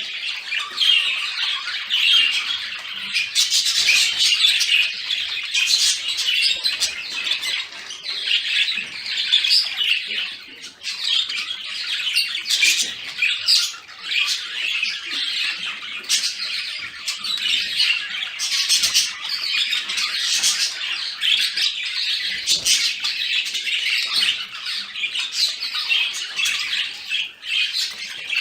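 Budgerigars chattering and warbling in a dense, continuous stream of chirps, squeaks and short squawks: the excited chatter of breeding-condition budgies.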